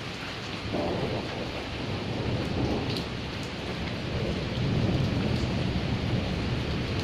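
Steady rain with rolling thunder: a low rumble swells in under a second in and builds to its loudest past the middle.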